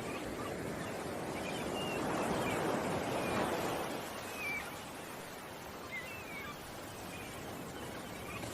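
Ocean waves washing ashore, the surf swelling a couple of seconds in and easing off, with small birds chirping briefly several times over it.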